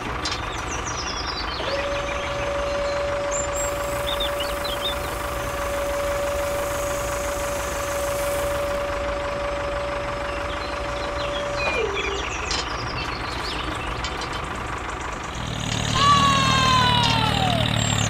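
Dubbed truck engine idling with a low, steady rumble, and a steady high whine held for about ten seconds. About two seconds before the end comes a louder cry that slides down in pitch.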